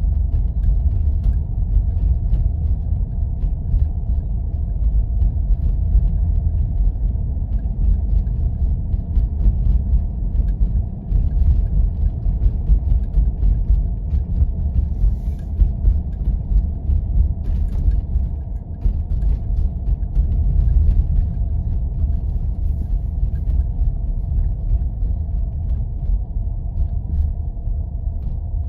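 Steady low rumble of a 4x4 driving on snowy roads: engine and tyre drone with a faint steady hum, and scattered faint ticks and crunches over it.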